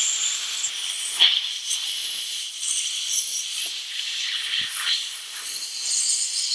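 A run of short hissing blasts of spray through a lawn mower carburetor's jets and passages as it is cleaned of water.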